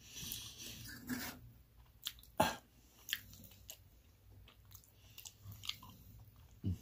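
Soft chewing of a mouthful of meatloaf and salad, with scattered sharp clicks and taps as a fork works food on a metal pan; the loudest click comes about two and a half seconds in.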